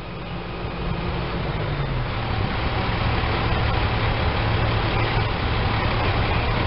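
Norfolk Southern track geometry train approaching, led by a research car with a GE C40-9W diesel behind it: a low engine drone that drops in pitch about two seconds in, with rail rumble growing steadily louder as it nears.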